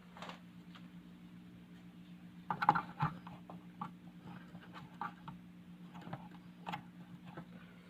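Steady low electrical hum, the kind of hum the speaker is being repaired for, with scattered irregular clicks and taps on top and a cluster of louder knocks about two and a half to three seconds in.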